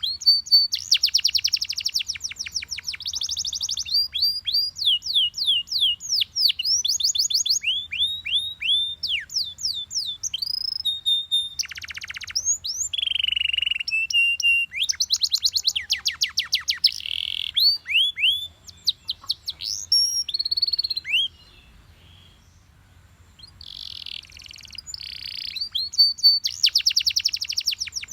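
Belgian canary singing: a long song of rapid trills and runs of quick falling whistled notes, with a few held buzzy notes. It pauses for about two seconds roughly three-quarters of the way through, then starts again with a fast trill.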